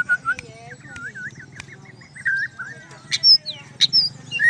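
White-rumped shama (murai batu) singing: a fast run of short rising whistled notes, then a few higher, sharper notes with clicks about three seconds in.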